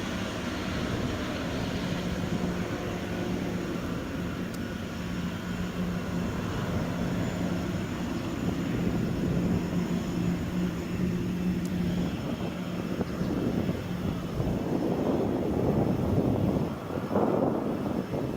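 Boeing 777-200ER jet engines on landing approach: a steady hum with a held low tone and thin higher whines. About three-quarters of the way through, the tones fade into a rougher, gusty rumble.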